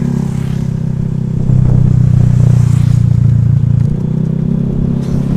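Single-cylinder Honda Vario scooter engine running under way, picking up for about two seconds as the throttle opens partway through, then easing back.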